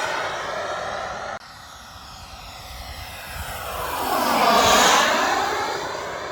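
Radio-controlled model aircraft flying past close by, its engine sound swelling to a peak a little past halfway and falling in pitch as it passes, then fading. Before that, a different stretch of engine noise cuts off suddenly about a second and a half in.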